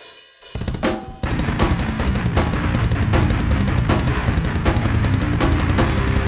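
Heavy metal band playing live in a rehearsal room: a drum kit with pounding bass drum, snare and cymbal strikes under distorted guitar and bass. A few opening hits come in after a brief quiet, and the full band kicks in about a second in.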